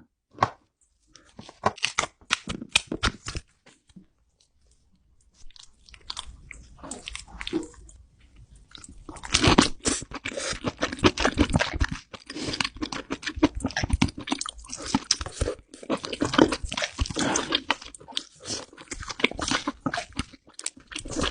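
Close-up eating of king crab: crunching, biting and chewing, with sharp cracks of shell and wet chewing. It comes in clusters, dropping off briefly about four seconds in, then turns dense and continuous from about nine seconds on.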